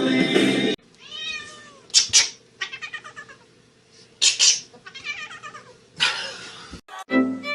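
A cat meowing and yowling in a string of separate calls, the loudest about two and four seconds in. Loud music plays for the first moment and cuts off abruptly.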